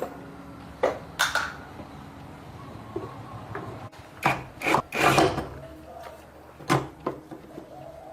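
Several short scrapes and knocks of hand work on parts, in irregular bursts, a few of them close together near the middle.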